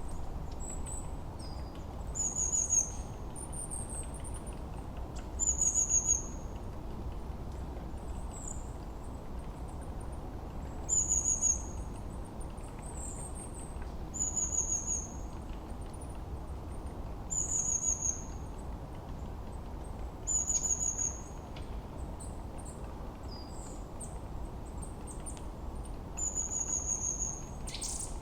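Forest birdsong: one bird repeats a short, high, falling whistled phrase every few seconds, with thin higher chirps from other birds around it, over a steady low background rush.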